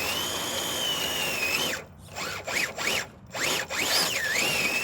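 Electric drivetrain of an RC rock crawler, an 8-turn Crawlmaster Sport brushed motor on 3S driving a transmission and portal gears, whining under throttle as the truck climbs rock. The whine rises and falls in pitch with throttle, cuts out twice in a row about two and three seconds in, with short blips of throttle between.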